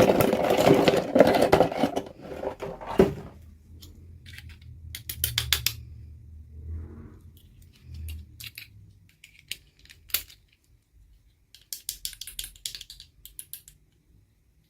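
Rustling handling noise for about two seconds, then scattered small clicks and taps of little hard plastic toy pieces being handled, some in quick clusters.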